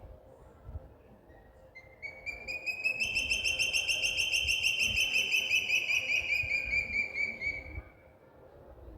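A songbird singing one long trill of rapid, evenly repeated notes. It starts about two seconds in, rises slightly in pitch, then slowly falls and fades out near the end.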